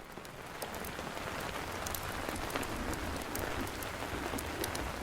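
Steady rain falling, mixed with a campfire crackling: scattered sharp pops and snaps over a constant hiss with a low rumble underneath. The sound fades in during the first second.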